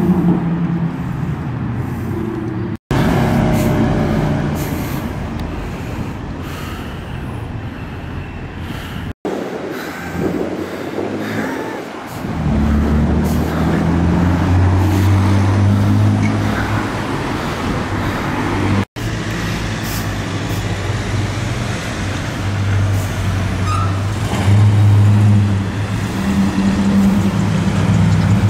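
Car engines running in street traffic, in several short pieces broken by three brief cuts. From about halfway a deep, steady engine note at low revs dominates.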